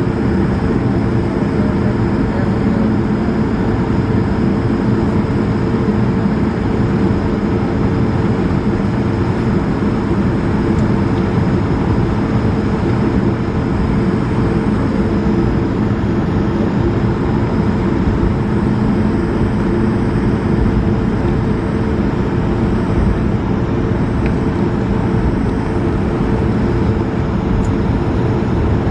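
Steady engine and air noise inside the cabin of an Airbus A220-300, its Pratt & Whitney PW1500G geared turbofans running at a constant setting with a low, even hum.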